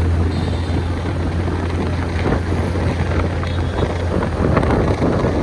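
Riding a motorbike in city traffic: a steady low rumble of wind on the microphone and engine over road and traffic noise, the rumble easing about four seconds in.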